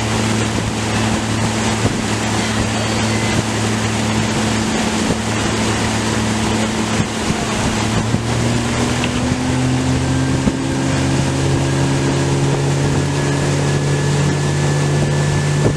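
Motorboat engine running under way, with wind rushing over the microphone and water noise; about halfway through the engine pitch begins to climb steadily as the boat speeds up.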